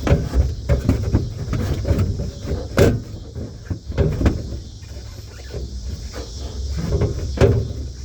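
Irregular knocks, taps and scraping inside a car's cabin as the old headliner and its parts are worked loose, with a louder knock about three seconds in and another near the end, over a steady hiss.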